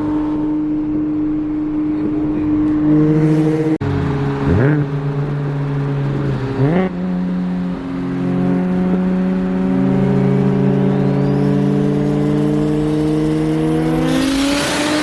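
Single-turbo BMW 335i's N54 straight-six running under acceleration. The revs drop and climb back twice, about four and seven seconds in, as gears change, then rise steadily through a long pull, ending in a loud burst of hiss near the end.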